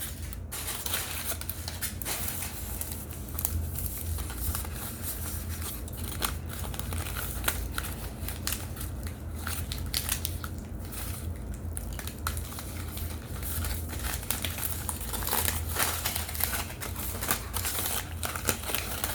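Oven-baked cornstarch chunks crunching close to the microphone: a dense, irregular run of small crackles and crunches.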